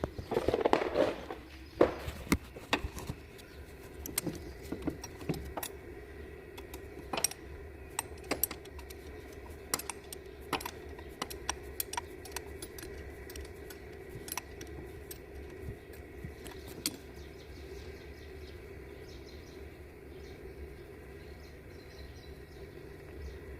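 Metal hand tools clinking and rattling: a burst of jangling in the first second or so, then sparse, irregular sharp clinks that stop after about 17 seconds, over a steady low hum.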